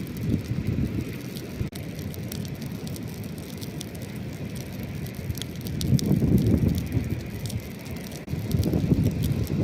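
A campfire crackling with scattered sharp pops, over the low rumble of ocean waves. The rumble swells about six seconds in and again near the end.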